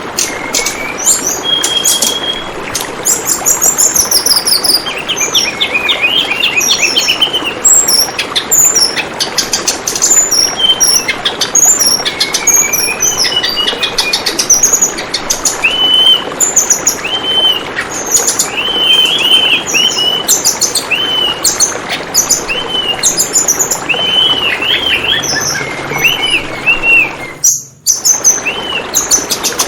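Tledekan bambu birds calling: a busy run of short chirps and quick rising-and-falling whistles over the steady rush of flowing water. Near the end, everything cuts out for a moment and then resumes.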